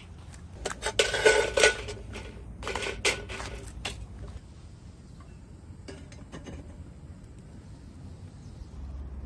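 Cookware and utensils clattering: a busy cluster of metallic clinks and knocks about a second in, another around three seconds, then a few lighter clicks.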